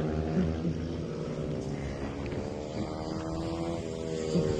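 110cc mini motorcycles racing on track, their engine note falling, then climbing to a peak near the end before dropping again as the riders work the throttle.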